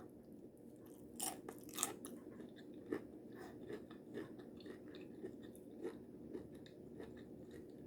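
A person chewing a mouthful of taco salad, faint. Two sharper crunches come a little over a second in, then softer chewing clicks.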